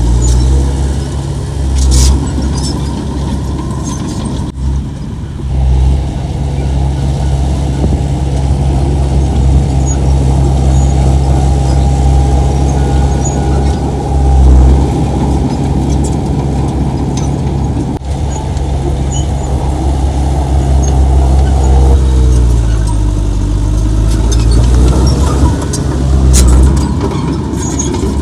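Heavy diesel engine of earthmoving machinery running loudly and steadily; about two-thirds of the way through its pitch dips and comes back up, and a few sharp knocks stand out.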